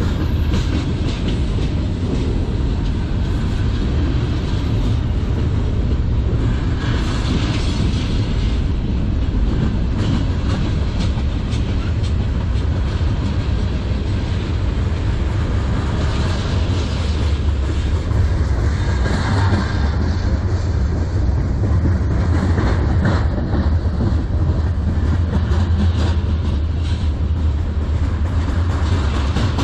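Freight cars of a CN manifest train (gondolas, tank cars and covered hoppers) rolling past at close range. Steel wheels on rail make a steady, loud rumble with a clickety-clack over the rail joints.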